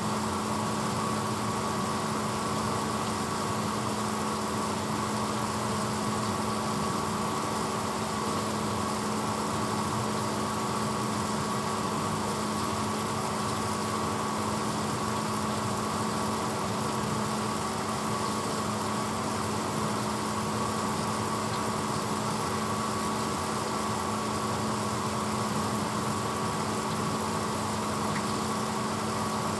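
1986 Hotpoint Potwasher dishwasher running with a steady, unchanging machine hum made of a few steady tones over an even whir.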